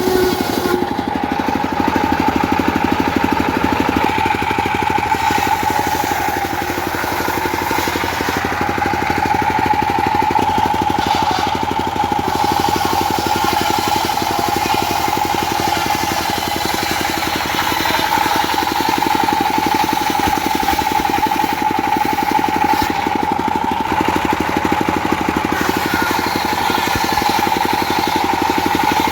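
Diesel engine driving a homemade circular sawmill, running steadily with a fast, even chugging and a constant high tone.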